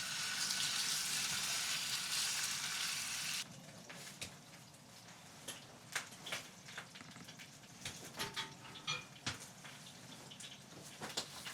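Food frying in a hot pan, a loud steady sizzle that cuts off suddenly about three seconds in. After that it is much quieter, with scattered small clicks and taps.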